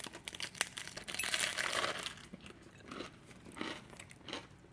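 Biting into a toasted English muffin sandwich with a crunch, then chewing in slow, even strokes from about three seconds in.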